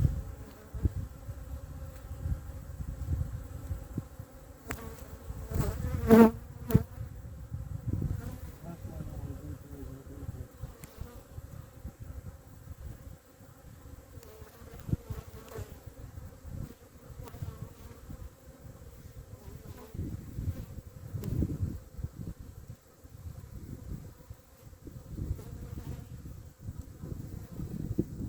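Honeybees buzzing at the hive, a steady hum over low gusty rumbling on the microphone, with a sharp knock about six seconds in.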